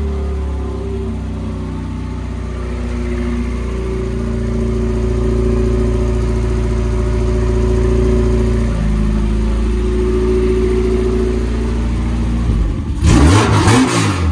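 Honda four-cylinder engine idling steadily, its pitch dipping briefly and recovering about two thirds of the way in. Near the end it is briefly revved, which is the loudest part.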